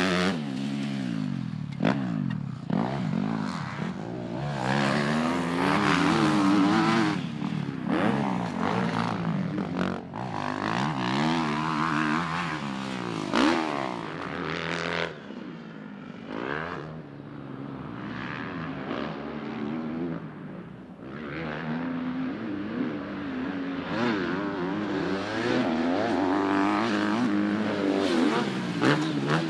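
Dirt bike engines racing, revving up and dropping off over and over as they run through the gears.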